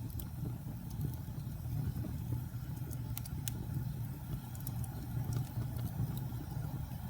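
Wood fire burning in a fireplace: a steady low rumble with small crackles and pops scattered through it.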